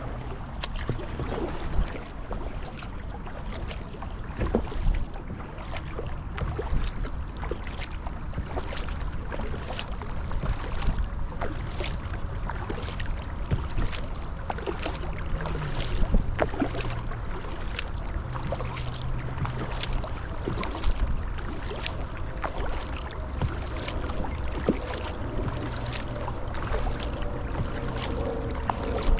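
Kayak paddle strokes dipping into the water, with many short splashes and drips, over a steady low rumble of wind on the microphone.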